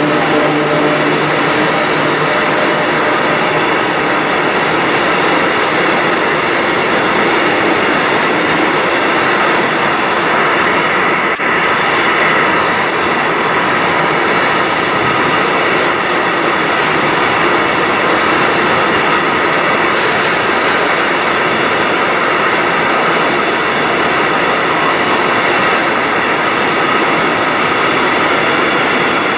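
Container freight train's loaded flat wagons rolling past close by: a loud, steady rush of steel wheels on rail that runs on without a break. A pitched tone dies away within the first second.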